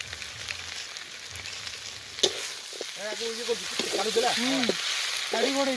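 Onions and spices sizzling in a large metal kadai while a metal spatula stirs them, scraping the pan, with a sharp clack a little after two seconds in. The sizzle grows louder in the second half.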